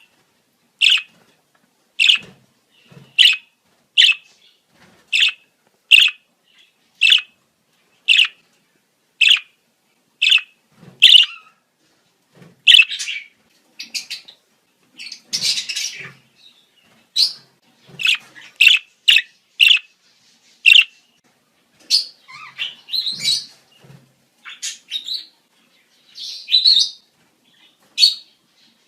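Budgerigars calling in breeding-season chatter: short, sharp chirps about once a second, turning into a busier, more varied warble in the second half.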